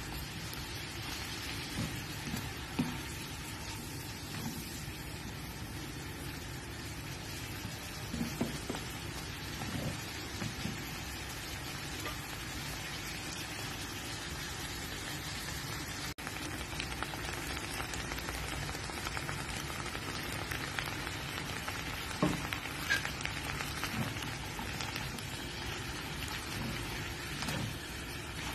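Broccoli and bell peppers sizzling steadily in a hot nonstick frying pan as they are stir-fried, with a few short knocks and scrapes of the spatula against the pan.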